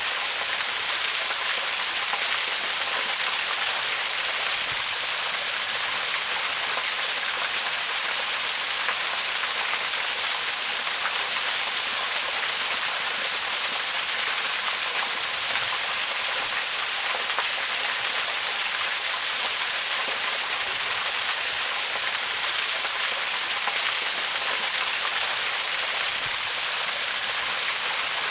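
Waterfall: falling water rushing steadily and without a break, with a bright hiss.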